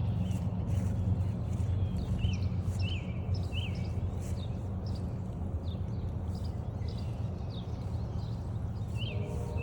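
Songbirds giving repeated short, downward-sweeping chirps, with footsteps crunching on a trail over a steady low rumble.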